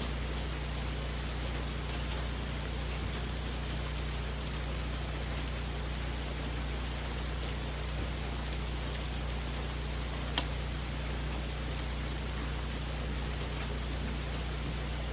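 Steady rain falling on forest foliage, an even patter with one sharp single tick about ten seconds in.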